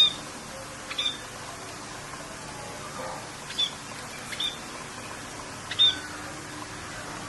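Birds calling in short, sharp chirps over a steady hiss of rain, about five calls a second or so apart, the first one the loudest.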